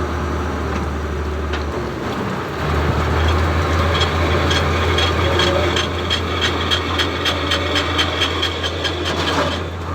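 An engine running steadily, with a brief drop in its hum about two seconds in. In the second half a rapid series of regular ticks, about four a second, runs over it.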